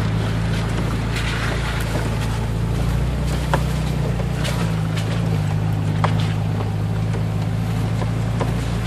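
Nissan Xterra engine running in a low, steady drone, heard from inside the cabin while crawling up a rough mountain road. A few sharp clicks sound over it, near the middle of the stretch.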